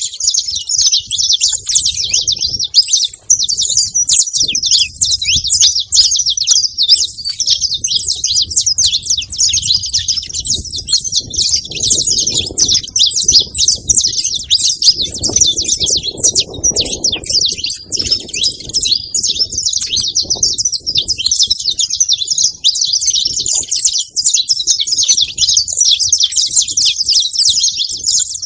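A flock of saffron finches chirping continuously, many high-pitched calls overlapping into one dense twittering mass.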